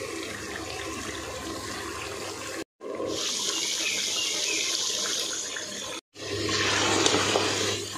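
Karela gosht curry sizzling and bubbling in oil in a pot as it is fried down (bhuna), in three stretches with two brief breaks; in the last stretch a ladle stirs through it. The sizzle is that of the masala frying until the ghee separates.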